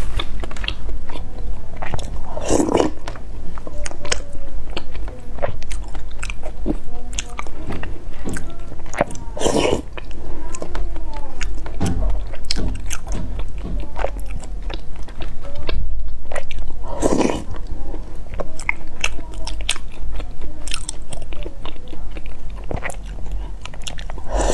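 Close-miked chewing of glutinous rice balls (tangyuan) coated in chocolate sauce: many small wet mouth clicks, with three louder, longer sounds about seven seconds apart.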